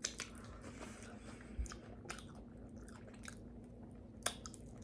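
A person chewing a mouthful of taco: faint wet mouth clicks and chewing, with a couple of sharper clicks about a second and a half in and near the end.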